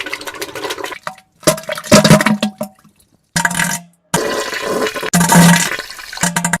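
Wet, spluttering diarrhea and fart sounds: about four separate bursts cut apart by abrupt silences, several with a low buzzing tone under the splatter.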